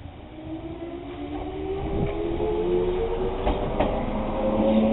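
Echizen Railway electric railcar moving past close by, its motor whine rising steadily in pitch as it picks up speed and growing louder, with a few sharp clacks of the wheels over rail joints in the second half.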